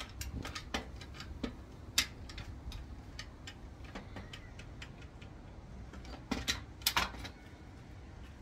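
Tools and metal parts of a manual gearbox clinking as it is taken apart: irregular light clicks and taps, with a louder cluster of knocks near the end.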